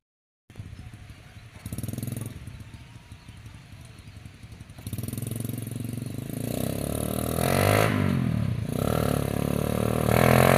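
Single-cylinder Honda Supra motorcycle engine powering a homemade three-wheeled cargo cart, running as the cart approaches and growing steadily louder. About three quarters in, the engine note dips and then climbs again.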